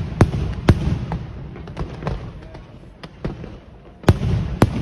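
Fireworks exploding: two loud sharp bangs in the first second, then scattered lighter cracks over a continuous low rumble, and a fresh pair of loud bangs near the end.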